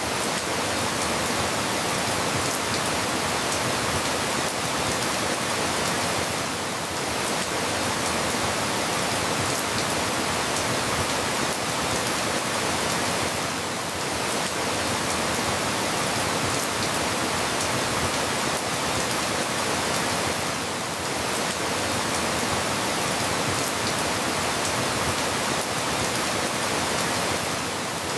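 Steady, even rain with no distinct drops or thunder. The level dips slightly about every seven seconds.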